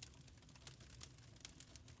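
Wood fire in a fireplace crackling faintly: irregular small pops and ticks over a low steady rumble.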